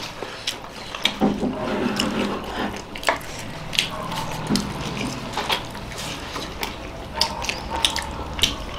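Several people chewing momos close to the microphone, with irregular short smacking and clicking mouth sounds.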